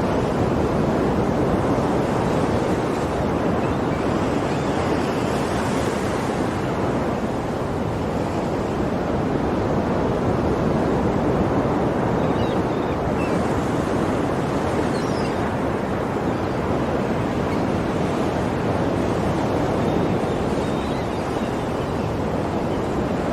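Ocean waves breaking and washing on a shore, a continuous surf rush that swells and eases slowly.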